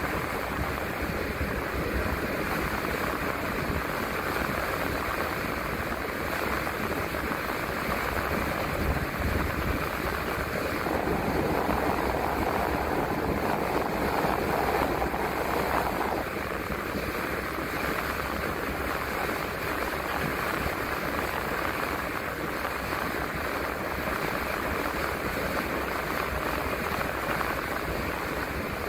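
Transit bus driving on the road, a steady rush of tyre, engine and road noise heard from inside the bus. It grows louder for about five seconds in the middle.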